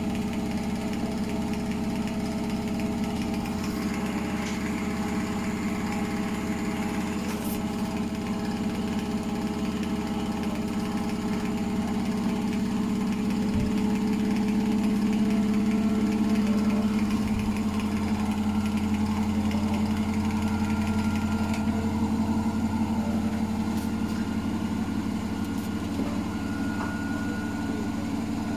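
Hotpoint WMFUG942 washing machine running with a box tumbling inside, its motor humming steadily and swelling slightly in the middle, with a faint higher whine coming in near the end and a couple of faint knocks.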